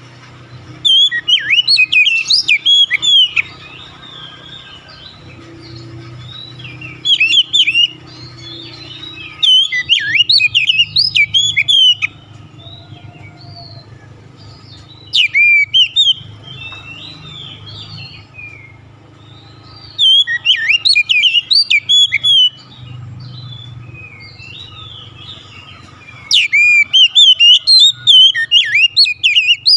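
Oriental magpie-robin (kacer) singing in six loud bursts of rapid, varied whistled phrases, separated by pauses of a few seconds, over a steady low hum.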